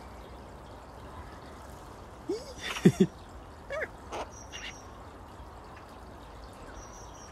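A few short, scattered bird calls over faint outdoor background noise: squeaky calls and a click about three seconds in, another call a second later, and brief high chirps near the middle and near the end.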